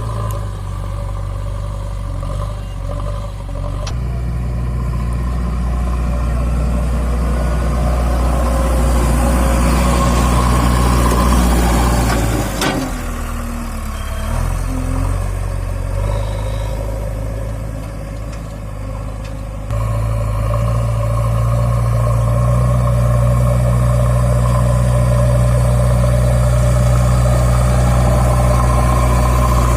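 JCB 3DX backhoe loader's diesel engine running and revving. About halfway through the pitch falls sharply and recovers, and near two-thirds of the way through the sound steps up abruptly louder and stays steady.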